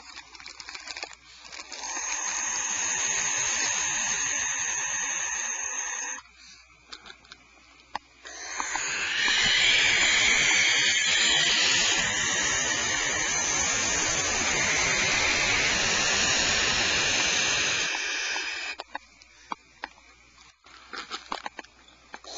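Barn owls giving long, harsh hissing screams: one of about four seconds near the start, then a louder one lasting about ten seconds, with faint clicks in the quiet gaps.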